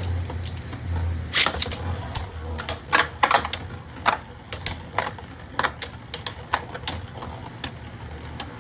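Two Beyblade Burst spinning tops battling in a stadium, clacking against each other and the stadium wall in irregular sharp hits. A low whir of the spinning tops is heard in the first couple of seconds.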